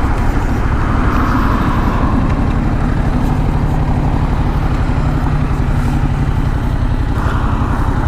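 Motorcycle engine running steadily with a dense low rumble.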